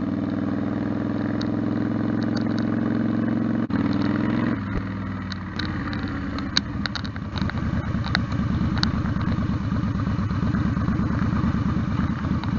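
Yamaha Star Stryker's V-twin engine running at low speed while the bike rolls through a parking lot. It is steady at first; about four and a half seconds in the pitch drops and it settles into a slower, uneven pulsing beat.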